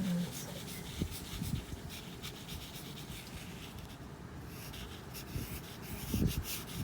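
Pen scratching on paper in short, irregular strokes while sketching a flower.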